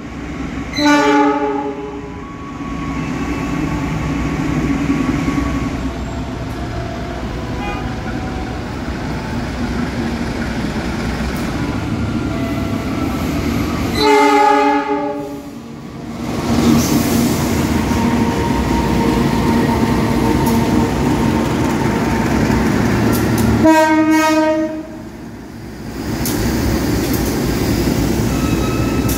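Trains running through a railway station, a steady rumble of locomotive engines and carriages on the track. Three loud multi-tone air-horn blasts sound: about a second in, about halfway through and near the end.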